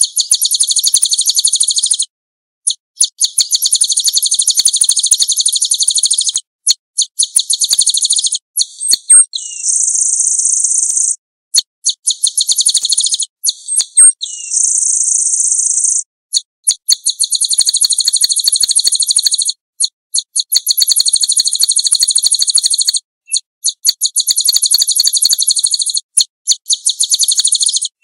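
Small songbird singing very rapid, high trills in phrases a few seconds long, separated by short breaks, with two shorter steady buzzy notes near the middle.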